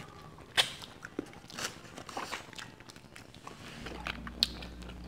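Close-up eating of sauced chicken wings: scattered wet smacks, bites and small crunches of chewing. A low steady hum comes in near the end.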